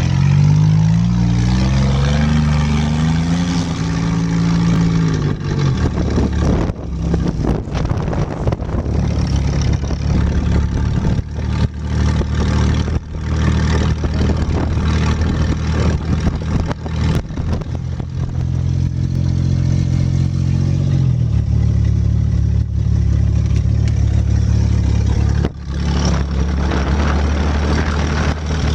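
A motor vehicle's engine revs up over the first few seconds. It then runs amid a rough, noisy stretch with many sharp knocks and clicks, and settles into a steady idle about two-thirds of the way in.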